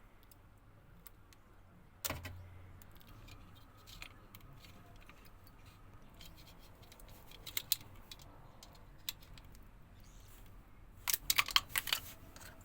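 Scattered sharp clicks and light knocks of hard objects being handled, with a rapid clatter of clicks about eleven seconds in.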